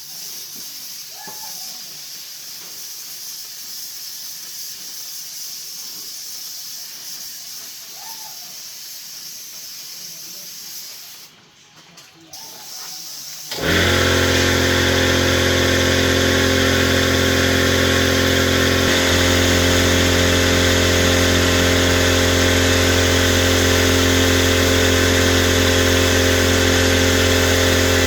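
A steady hiss, then about halfway through a machine with an electric motor starts abruptly and runs loud and steady, with a slight shift in its tone a few seconds later.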